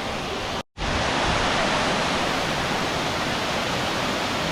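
Steady rush of a large waterfall's water. It breaks into a split-second silence under a second in, then carries on slightly louder.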